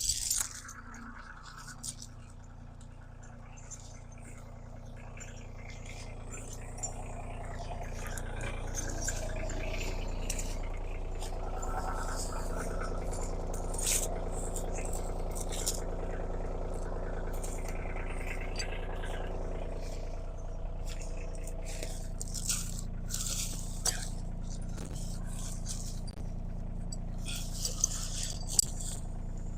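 A machine's engine running steadily at a low level, with scattered scrapes, rattles and clicks.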